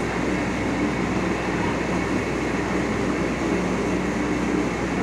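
Aerial ladder fire truck's engine running steadily with a low, even hum.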